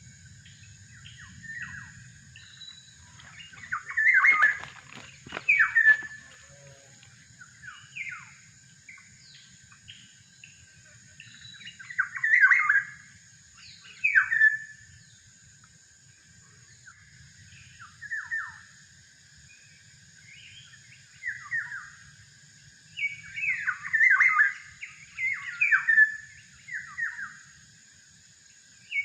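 Oriole calls: short notes sliding downward, repeated in bunches with pauses between, loudest a few seconds in and again near the end, over a steady high hum.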